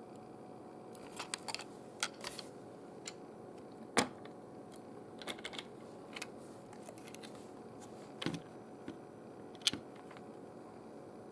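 Scattered, irregular light clicks and taps over a faint steady hum; the sharpest knock comes about four seconds in.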